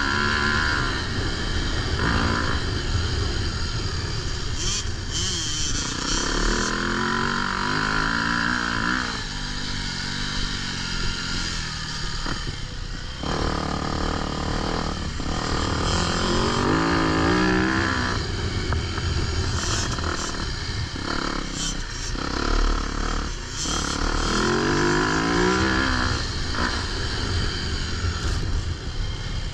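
Motocross dirt bike engine revving hard under riding, its pitch climbing and then dropping again several times as the throttle is worked and gears change, over steady wind and riding noise.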